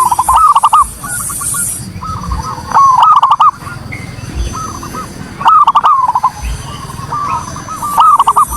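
Zebra dove (perkutut) cooing: rhythmic phrases of quick, rolling notes, the loudest phrases coming about every three seconds with softer cooing between them. A steady high hiss sounds in the background at the start and again near the end.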